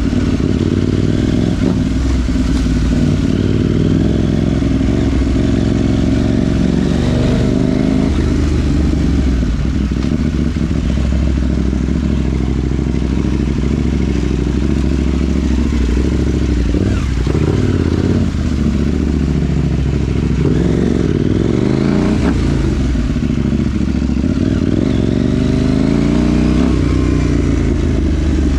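KTM 790 Duke's parallel-twin engine through a Remus rear silencer with the catalytic converter removed, running under riding load. Its pitch rises and falls repeatedly as it accelerates and eases off.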